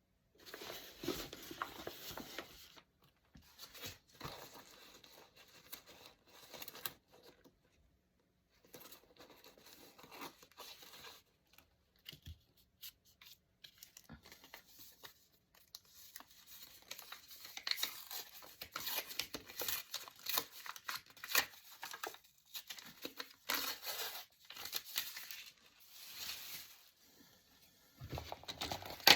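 Paper being torn and handled by hand, in irregular bursts of tearing and crinkling with quiet pauses between. A sharp clink rings out right at the end.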